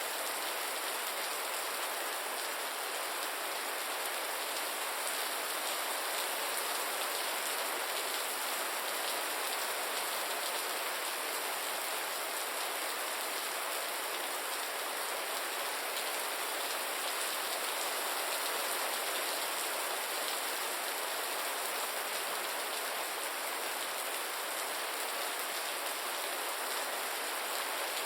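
Steady rain falling: an even hiss of many small drops pattering on a surface, with no change in strength.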